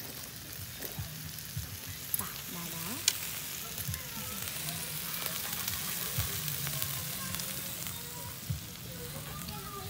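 Food frying: a steady sizzle with scattered crackles and one sharp pop about three seconds in.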